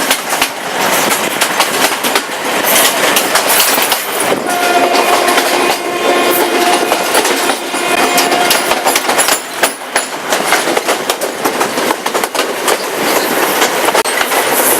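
Passenger train running at speed, heard from aboard: a continuous rush with wheels clicking over the rail joints. A steady pitched tone sounds for about four seconds in the middle.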